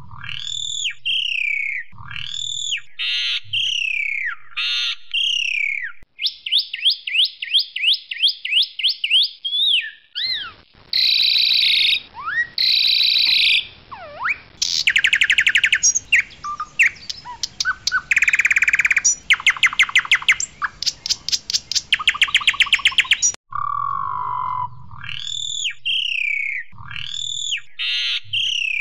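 Asian pied starling (jalak suren) singing a varied song: slurred descending whistles, a fast run of short rising notes, harsh squawks and long rapid rattling clicks. The opening whistled phrases come back near the end.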